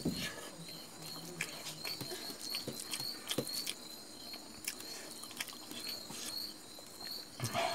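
Close mouth sounds of eating by hand: soft chewing and lip-smacking on a mouthful of rice, with scattered small clicks and the light sound of fingers pressing rice together on a steel plate.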